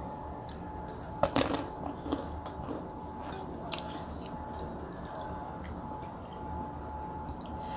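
Close-up chewing and biting of a person eating fried food and rice with her fingers, with a few sharp crunchy clicks, the loudest a little over a second in. A faint steady hum runs underneath.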